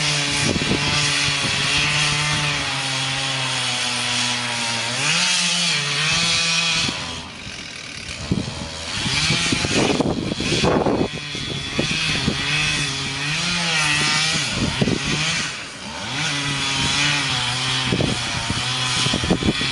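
Chainsaw running at high revs through wood, its pitch sagging and recovering as it comes under load, easing off briefly twice.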